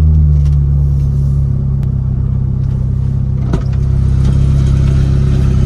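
Car engine idling steadily, a low hum heard from inside the cabin. A single brief knock about three and a half seconds in.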